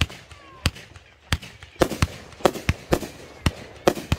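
Consumer fireworks going off: about ten sharp bangs at irregular intervals, sparse in the first half and coming quicker in the second.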